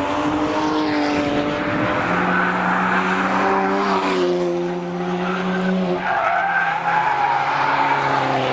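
Mini Cooper hatchback's four-cylinder engine pulling hard through a corner as it approaches and passes close by. Its note drops about six seconds in.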